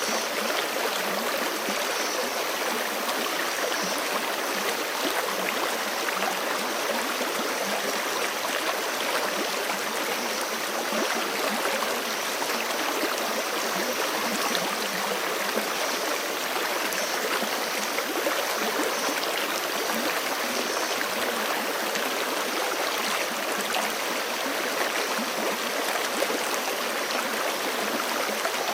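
A forest creek rushing steadily, an even, unbroken wash of flowing water.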